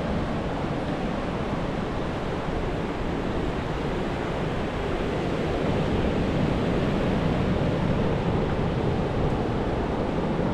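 Steady rushing of coastal wind and surf, with wind buffeting the microphone.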